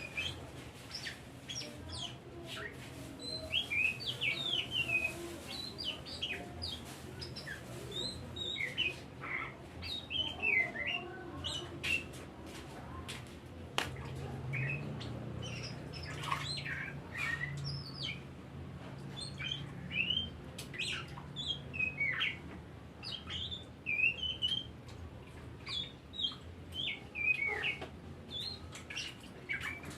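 Oriental magpie-robin singing a long, varied song of quick whistles and chirps, over a low steady hum.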